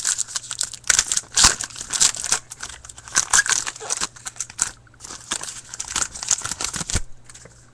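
Plastic wrapper of a hockey card pack crinkling as it is torn open and handled, a dense run of quick crackles that eases off near the end.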